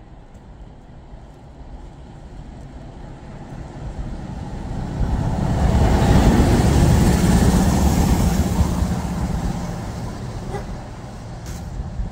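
Pair of MLW diesel locomotives passing: a heavy engine rumble swells over a few seconds, is loudest for a few seconds around the middle, then fades away.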